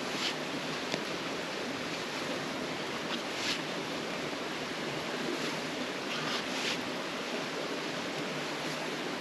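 Steady rush of running water, like a nearby creek, with a few brief soft hisses on top.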